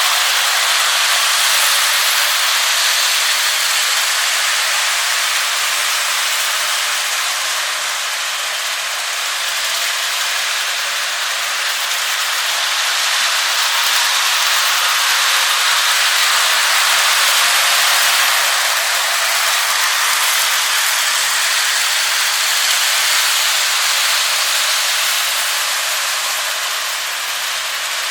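Lionel O scale toy train running around the track: a steady, hissing rush that slowly swells and eases as it circles.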